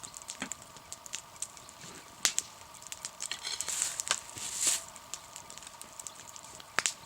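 Wood campfire crackling, with irregular sharp pops and snaps and a short hissing rush about four seconds in.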